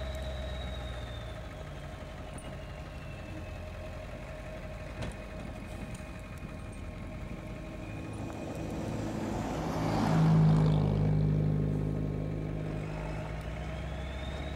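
A motor vehicle driving past on the street: its engine and tyre noise build up to the loudest point about ten seconds in, then fade, over a steady low engine hum.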